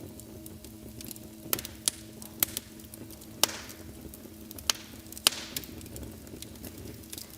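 Wood fire crackling in a fireplace: irregular sharp pops and snaps, a few of them louder, over a faint steady low hum.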